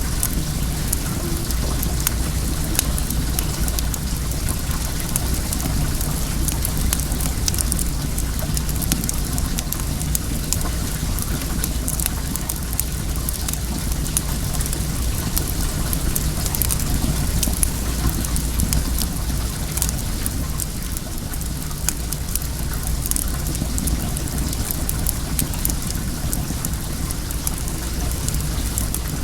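Wood bonfire crackling with many small sharp pops, over the steady rush of flowing well water.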